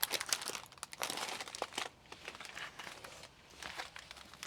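Diamond painting canvas with its plastic film cover crinkling and rustling as it is handled, in irregular rustles and small clicks.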